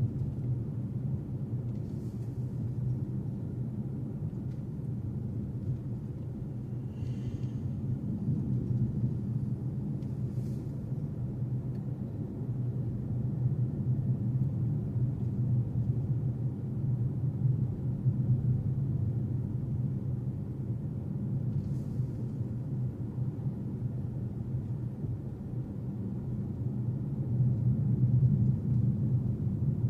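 Steady low rumble of a car driving along, engine and tyre noise, with a few faint clicks.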